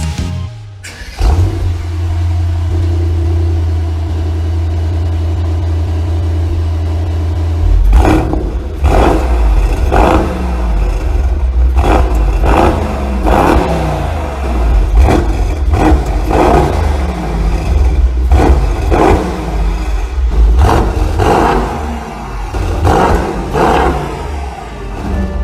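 Mercedes-AMG GT 63 S's twin-turbo 4.0-litre V8 starting up about a second in and idling steadily. From about eight seconds in it is revved in short blips about once a second, each rising and dropping back.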